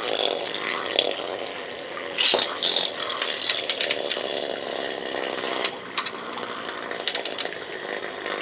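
Two Beyblade spinning tops whirring and grinding against each other in a plastic stadium, with sharp clacks as they collide, the loudest hit about two seconds in and a run of smaller clacks after.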